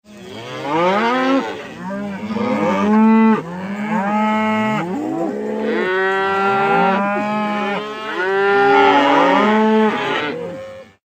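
A run of long, pitched animal calls, one after another and some overlapping, each bending up and down in pitch. It is a sound-effect clip that starts and stops abruptly.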